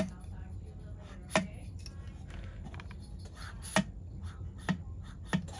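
Sharp clicks and knocks of metal tools and chainsaw parts being handled on a bench, about five, irregularly spaced.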